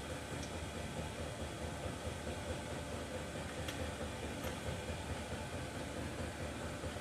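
Steady background hum and hiss, with a few faint light clicks about half a second in and again around four seconds in.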